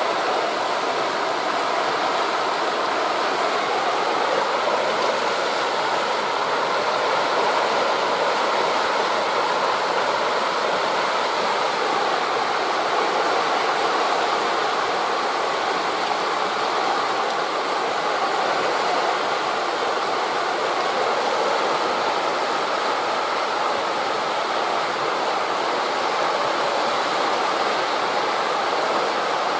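Steady rushing noise of wind through forest leaves blended with the wash of sea waves, even in level with no distinct wave swells or other events.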